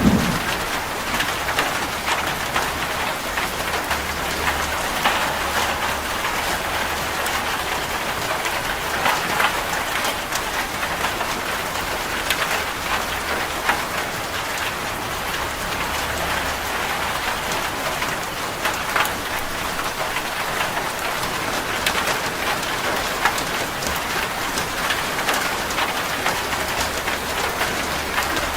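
Steady rain drumming on a corrugated zinc (seng) roof: a dense even patter with many individual drop ticks.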